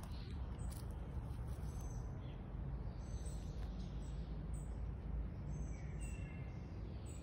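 Small birds chirping faintly, short high calls repeating every second or so, over a steady low outdoor rumble.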